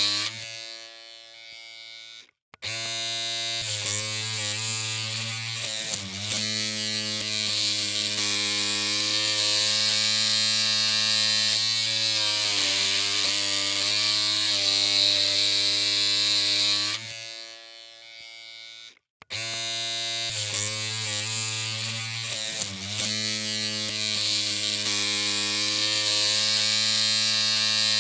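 Electric hair clippers running with a steady, even buzz. Twice the buzz drops low and cuts out for a moment, about two seconds in and again around nineteen seconds, then starts up again at full strength.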